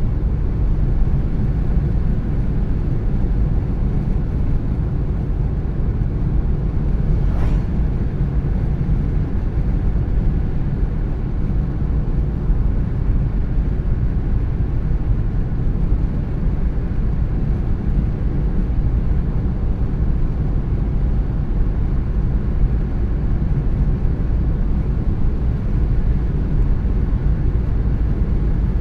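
Car driving at steady speed: a constant low rumble of tyre, road and engine noise, with one faint brief click about seven seconds in.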